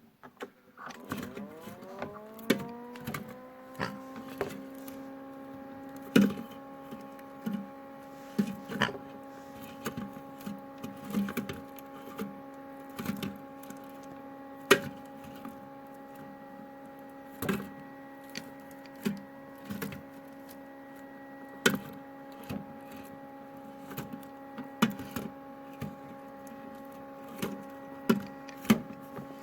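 LG washing machine's drum motor whining as it speeds up over the first few seconds, then holding at a steady pitch. Kinder Surprise eggs in the drum knock and clack irregularly as it turns.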